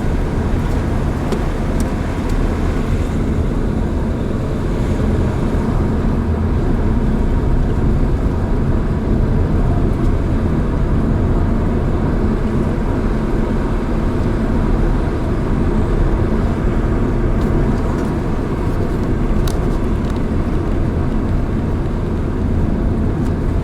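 A vehicle driving at a steady speed: a continuous low rumble of road and running noise, with a few faint ticks.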